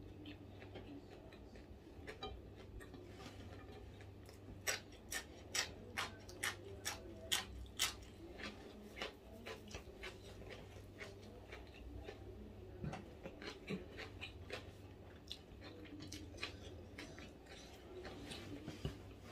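Close-up mouth sounds of someone chewing crunchy food: a run of sharp crunches about two a second, loudest between about five and eight seconds in, then scattered softer crunches. A low steady hum runs beneath.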